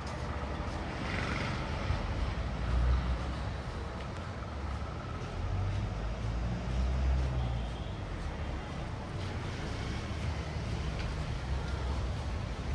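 Street traffic in the background: vehicles rumbling past in a steady hum, swelling as one passes about three seconds in and again around six to eight seconds in.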